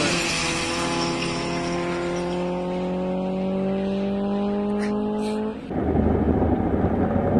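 Car engine on a racetrack accelerating under load, its note climbing slowly and steadily for about five and a half seconds, then cut off abruptly. After that comes a steady low rumble of road and wind noise from inside a moving car.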